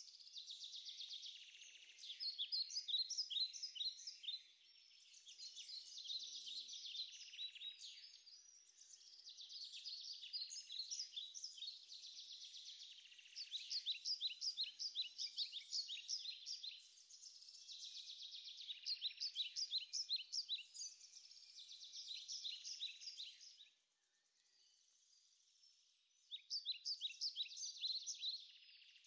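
Wild birds singing: phrases of rapid high chirps repeat every few seconds, with a brief lull shortly before the end.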